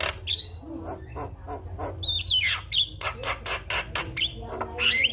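Javan myna (jalak kebo) calling: fast harsh clicking chatter and squawks, broken by warbling whistles and a whistled note that slides down about two seconds in.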